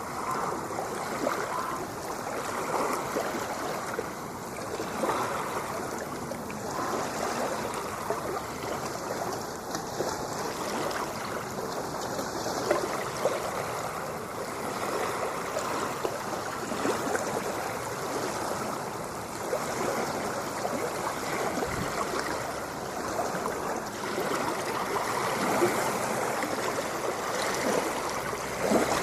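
Ocean water washing and lapping on the shore: a steady rush with fine splashing texture, rising and falling irregularly in loudness.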